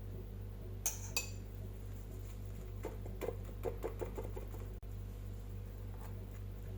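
Kitchen dishes and utensils clinking: two sharp clinks about a second in, then a quick run of softer taps, about six a second, around the middle, over a steady low hum.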